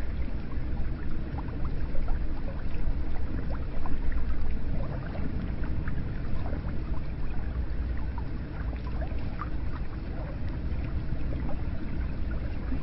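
Hot spring water flowing and splashing: a steady low rush with many small splashes and drips on top.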